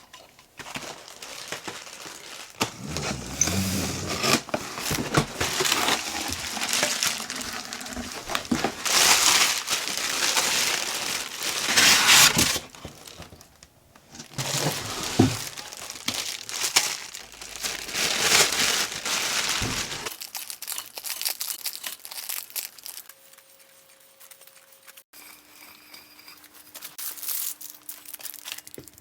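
Packaging crinkling and rustling as something is unwrapped by hand, loud and irregular for about twenty seconds, then quieter handling sounds with a faint steady hum near the end.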